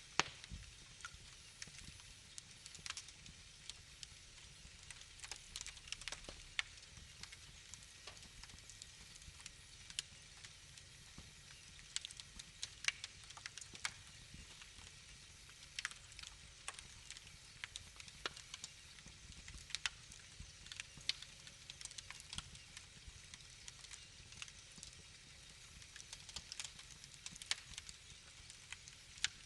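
Wood fire burning in a fireplace: irregular crackles and sharp pops, a few a second, over a low steady rumble of flames.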